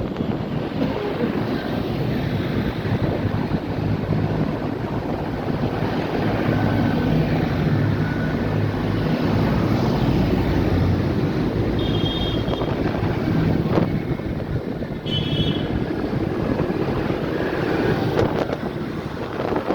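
Diesel tractor engines running as a procession of tractors drives past, the engine note strongest around the middle, with wind buffeting the microphone.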